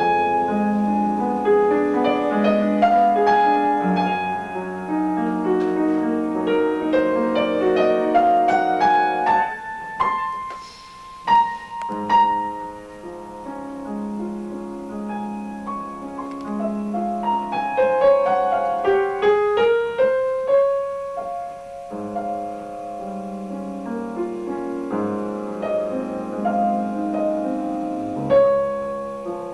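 Piano being played: a flowing piece of sustained chords and rising runs, thinning to a few single notes about ten seconds in before the playing picks up again.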